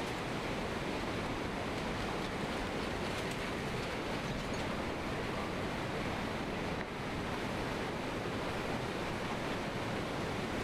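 Steady rushing water with wind blowing on the microphone.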